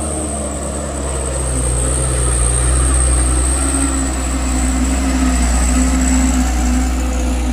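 Heavy truck's diesel engine labouring up a steep climb, a deep, steady drone that grows louder over the first couple of seconds and eases off near the end.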